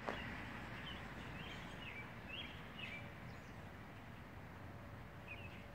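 Faint outdoor ambience: a steady low background noise with a bird chirping in short calls, several in the first three seconds and a couple more near the end.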